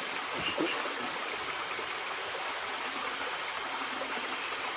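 Steady, unbroken rush of water, with a couple of faint knocks about half a second in.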